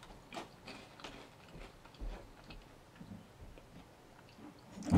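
A person chewing a crunchy baked biscuit stick: faint, irregular crunching clicks, with one louder short mouth sound near the end.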